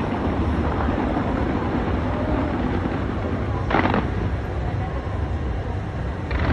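Murmur of a large outdoor crowd over a steady low rumble of wind on the microphone, with one short sharp crackle about four seconds in.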